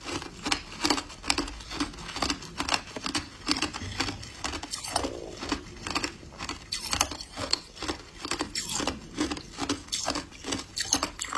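Close-miked chewing of ice dusted with matcha powder: a steady run of crisp crunches, about two to three a second.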